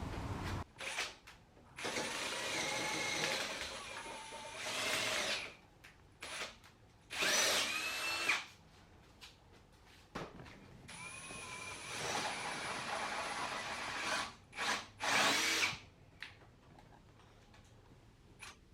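Handheld electric power tool running in a series of short bursts, its motor whine rising and falling as it starts and stops, with the loudest burst about seven seconds in; the tool stops well before the end.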